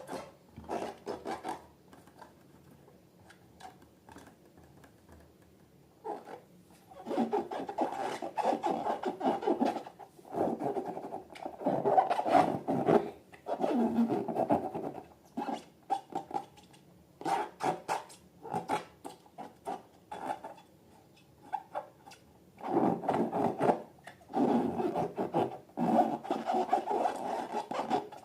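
Hands working slime and balloons: rubbing and scraping in irregular bursts, with a few light clicks at first, then long busy stretches of handling.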